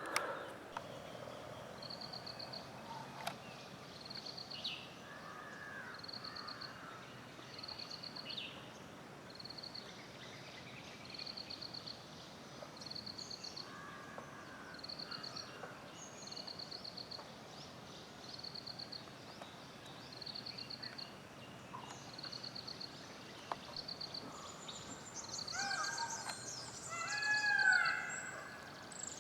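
Wild birds calling: a short, high trilled note repeated about every second and a half throughout, with scattered lower calls between and a louder burst of several overlapping calls near the end.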